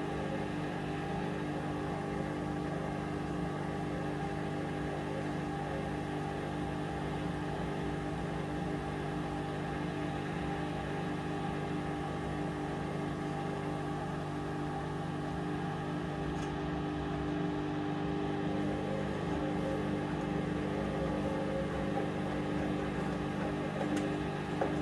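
Hoover Vision Dynamic front-loading washing machine running mid-wash: a steady motor hum with even tones that hardly change.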